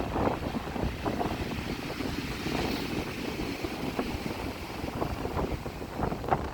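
Strong wind buffeting the microphone in a constant low rumble, over surf washing and splashing, with a hiss of water swelling in the middle.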